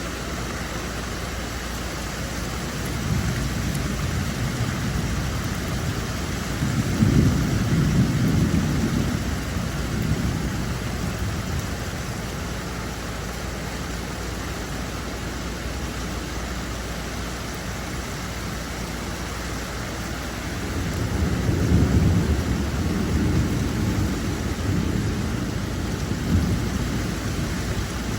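Steady rain falling, with two long low rolls of thunder, one a few seconds in and another about twenty seconds in.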